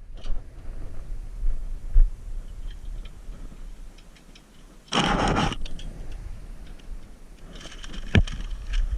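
Workshop handling noises: knocks and clicks over a low rumble. About five seconds in comes a half-second burst of compressed-air hiss, and another hiss starts near the end, typical of an air spray gun applying rustproofing coating.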